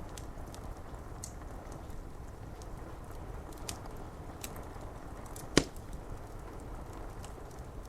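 Wood fire crackling with scattered small, sharp pops and one loud pop a little past halfway, over a steady hiss of rain on window glass.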